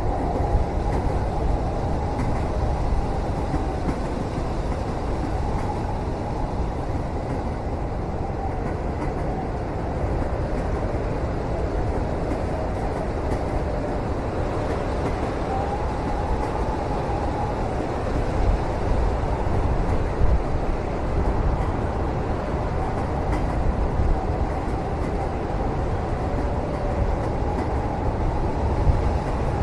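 Train carriage interior while the train is moving: a steady low rumble of the wheels on the rails, with a faint wavering whine above it and a few light knocks about two-thirds of the way through and near the end.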